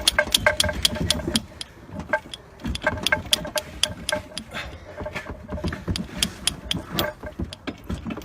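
Metal hoist chain clinking in a quick run of sharp, ringing clicks as the rebuilt rotary engine is lowered and shifted into the engine bay. The clicks come fast in the first second or so, then slow to a few a second.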